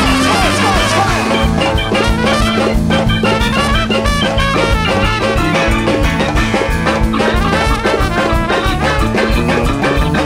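A large jazz big band playing live: horns including saxophones and trumpet over a busy, driving drum and percussion groove.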